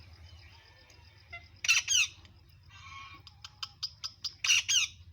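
A parrot squawking: two loud, harsh squawks about three seconds apart, with a shorter call and a quick run of sharp clicks between them.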